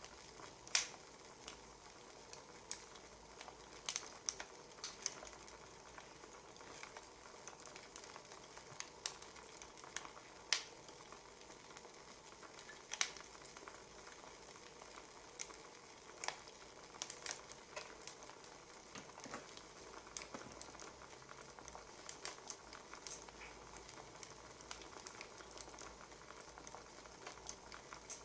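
Wood fire crackling: a steady soft hiss with irregular sharp pops and snaps from the burning logs.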